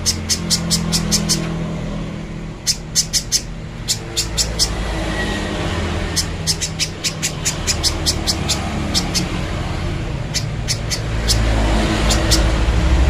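Spiderhunter (pijantung) calling: runs of sharp, high chipping notes, several a second, in bursts with short pauses, over a steady low rumble.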